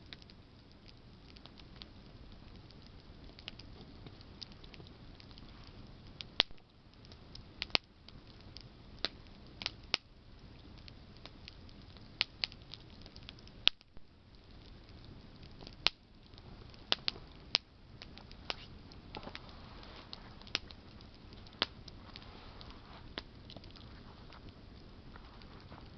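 Campfire of burning branches crackling: sharp, irregular snaps and pops, a few of them loud, over a low steady hiss of the flames.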